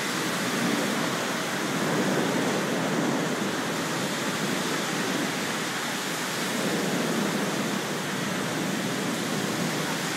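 Torrential thunderstorm rain driven by strong wind: a dense, steady rush of pouring water that swells and eases a little with the gusts.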